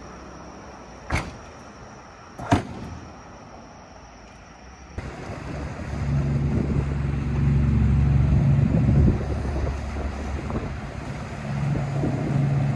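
Ducati Monster's L-twin engine running while riding, with a steady low engine hum over wind and road noise that grows loud from about six seconds in. Before that, two sharp clicks against a quieter hiss.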